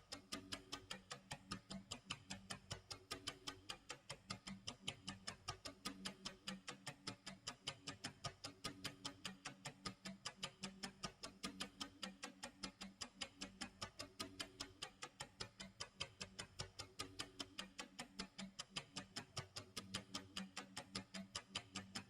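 Clock tick-tock sound effect: a steady, even run of faint ticks, several a second.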